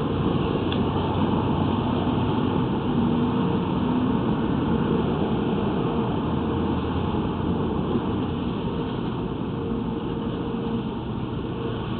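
Steady low rumble of street traffic with a faint hum, heard through a narrow-band phone microphone.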